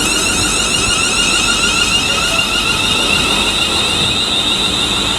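Electric multiple unit's traction motors whining as it accelerates out of the station, with a steady high tone and warbling, rising pitch lines.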